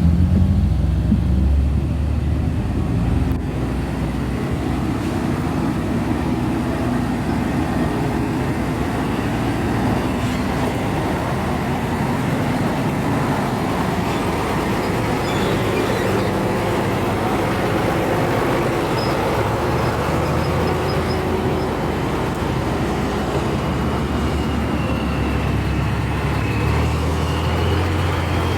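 Heavy truck engines running with steady road traffic noise. The low engine rumble is strongest at the start.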